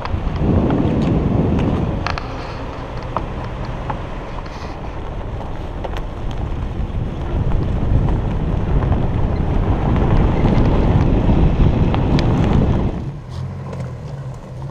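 Wind rushing over a vehicle-mounted camera's microphone as a Nissan Xterra drives, with heavy low rumble from the engine and tyres. About thirteen seconds in it drops to a quieter, steady engine hum from an Xterra crawling up a dirt trail.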